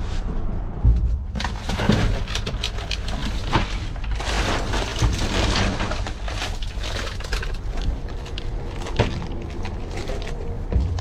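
Rummaging through trash in a dumpster: bags and objects rustling, crackling and knocking together in a steady irregular clatter, with a few sharper knocks.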